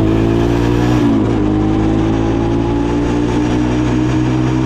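Four-wheeler (ATV) engine running steadily while being ridden. The engine note dips briefly about a second in, then holds steady.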